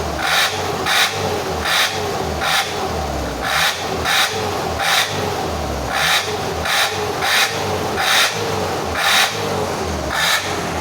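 Regular rasping strokes, a little over one a second, over a steady low running hum.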